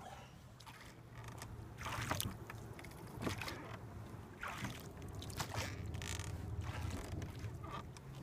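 Canoe paddle strokes in lake water, a swish with each pull, repeating roughly once a second over a steady low background rumble.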